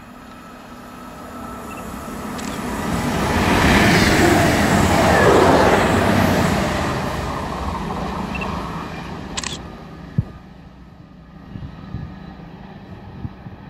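Class 221 Super Voyager diesel-electric multiple unit passing through a station at speed: its engine and wheel noise build over about four seconds, peak as it goes by, then die away. A camera shutter clicks once as the sound fades.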